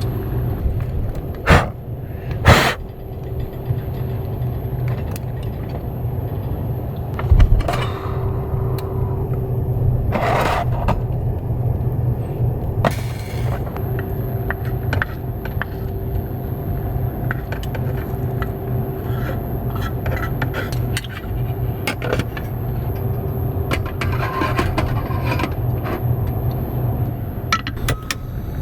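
Strong gusting wind rumbling against a small car, with scattered clicks and scrapes of things being handled.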